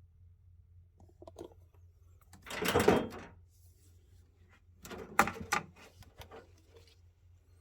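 Handling noises. A few light clicks, then a louder noise lasting just under a second that swells and fades, then a quick cluster of sharp clicks and knocks.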